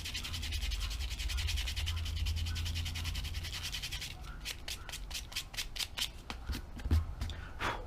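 Hand sanding the inflatable kayak's PVC skin to take off old glue and rubber: fast back-and-forth rubbing strokes, slowing about four seconds in to separate strokes roughly four a second.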